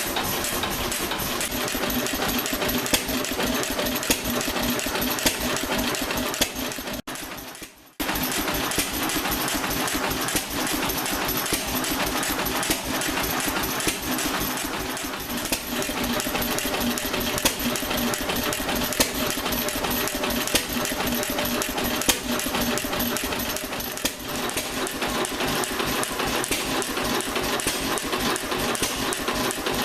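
Antique SAMSCO 5 HP throttle-governed stationary engine running steadily with a rapid, even firing rhythm. The sound briefly drops out about seven seconds in, then resumes unchanged.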